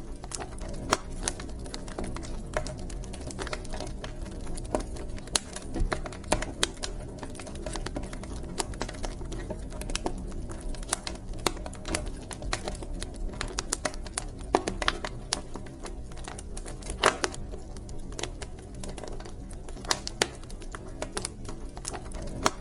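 Wood fire burning in a fireplace: irregular crackles and sharper pops, several a second, over a steady low rumble of the flames.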